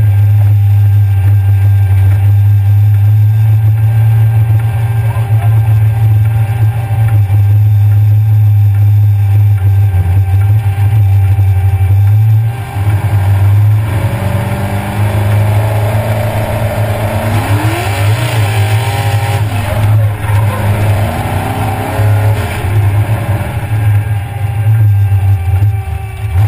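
Mud-racing car's engine heard from inside the cab, running hard at a steady drone for about twelve seconds. It then changes note and revs up and down in several rising and falling sweeps.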